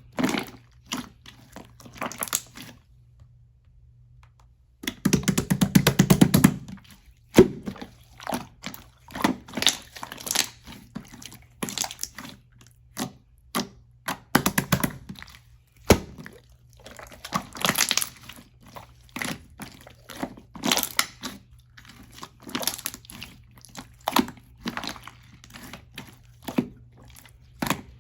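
Clear slime being squished and pulled by hand: irregular wet clicks and pops, with a denser run of crackling squelches about five seconds in.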